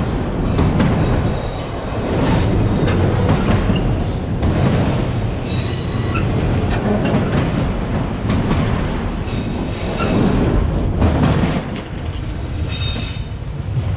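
Empty autorack freight cars of a KCSM automotive train rolling past, a steady loud rumble of steel wheels on rail with clattering and several short, high wheel squeals.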